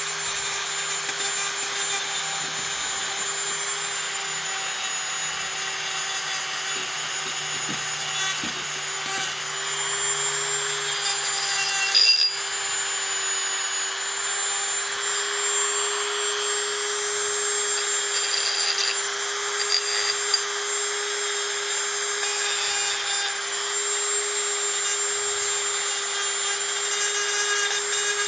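Dremel rotary tool running at a steady high speed with a copper wire brush, scrubbing corrosion off a corroded bathtub faucet fitting. A constant motor whine sits under a rough grating scrub, with a brief louder catch about twelve seconds in.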